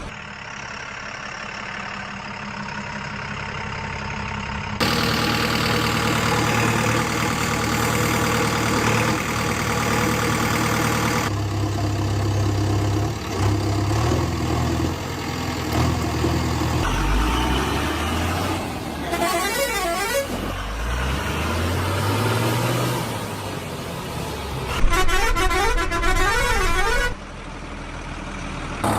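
Vehicle engine sounds and horns in several segments that start and stop abruptly. The engine pitch rises and falls repeatedly in the middle, and warbling horn tones come twice near the end.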